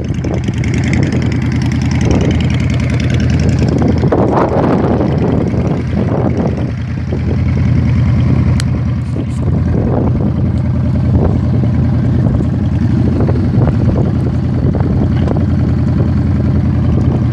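Motorcycle engine idling steadily, with an even low thrum.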